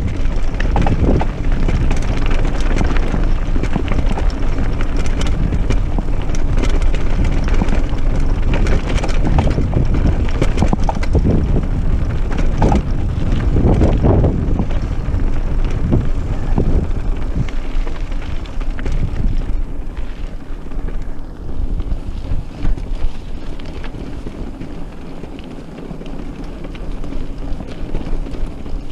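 Mountain bike rattling and its tyres rumbling over rough off-road ground, with wind buffeting the action camera's microphone. Dense knocks and jolts for most of it, easing to a smoother, quieter rush in the last third.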